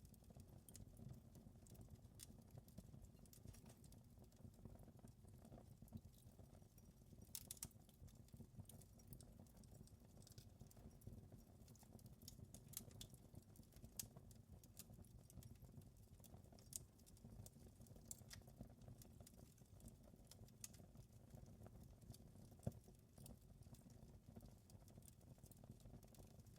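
Wood fire burning in a fireplace: a soft low rumble with irregular crackles and pops, a small burst of them about seven seconds in and one sharper pop later on.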